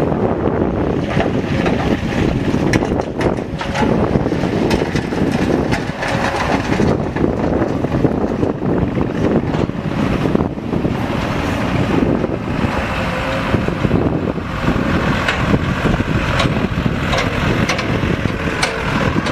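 Heavy-equipment diesel engine running steadily under wind buffeting the microphone, with occasional short knocks.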